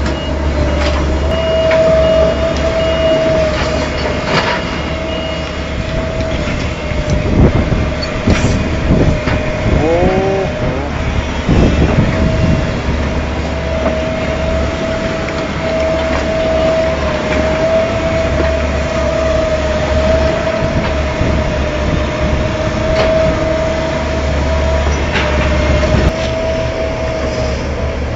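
Heavy excavator running: a steady engine rumble carrying a constant high whine, with scattered clanks and knocks and a short gliding squeal about ten seconds in.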